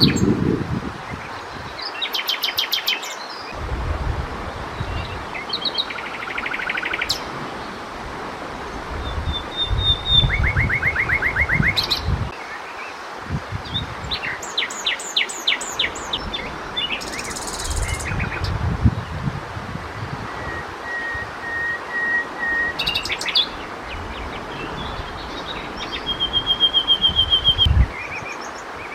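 Common nightingale singing: separate phrases of fast repeated notes, rattling trills and clear whistles, with short pauses between them. Bursts of low rumble come and go underneath, loudest near the end.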